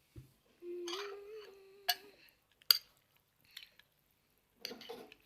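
Utensils clicking and clinking against a bowl as instant noodles are stirred, a few separate sharp clicks. A short steady hum is heard about a second in.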